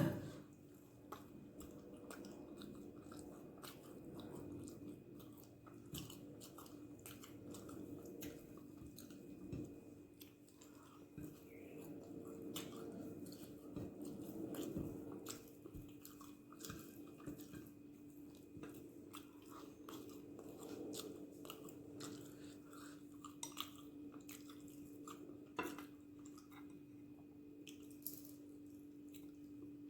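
A person chewing and eating a dosa meal, faint wet chewing with many small irregular clicks, over a steady low hum; a sharp click right at the start is the loudest sound.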